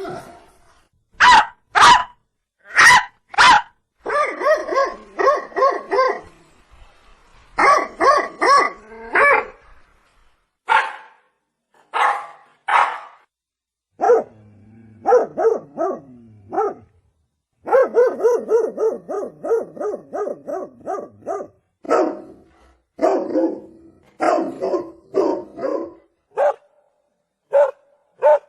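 Dog barking over and over: four sharp single barks at the start, then runs of quick barks broken by short pauses.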